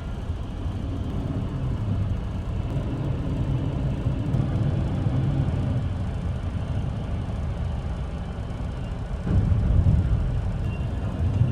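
Heavy diesel engine running steadily, a low rumble that gets louder about nine seconds in.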